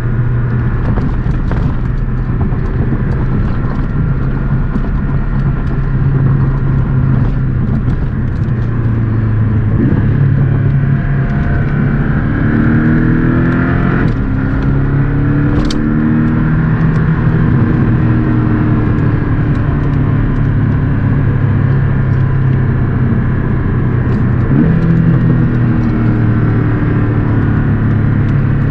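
Porsche 718 Boxster S's turbocharged flat-four engine pulling the car along with road and wind noise. Its revs rise and fall through gear changes in the middle, and there is a single sharp click about halfway through.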